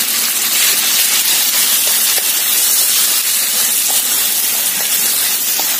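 Raw diced chicken sizzling steadily in hot oil in a wok as it is sautéed and stirred with chopsticks.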